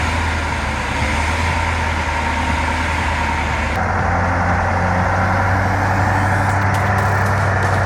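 6x6 logging truck engine running steadily, its note changing a little about four seconds in.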